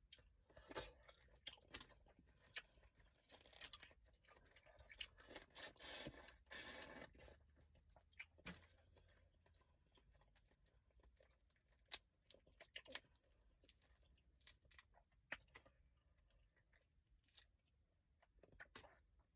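Faint sounds of boiled crawfish being peeled and eaten: shells crackling and tearing, with wet chewing. They come thick in the first seven seconds or so, then thin out to scattered clicks.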